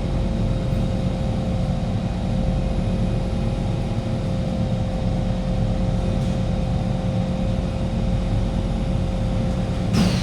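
Interior of a Kawasaki Heavy Industries C151 metro train car running on the line: a steady rumble with a steady hum held through it. About ten seconds in there is a sharp click and a short falling high squeal from the wheels.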